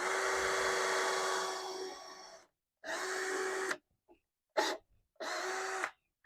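Power drill boring pilot holes into 2x6 lumber, run in four bursts of the trigger: a first one of about two seconds that trails off, then three shorter ones.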